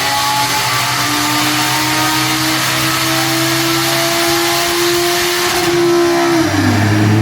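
Audi R8's 5.2-litre V10 running under load on a chassis dyno, revs climbing slowly and steadily, then dropping quickly near the end.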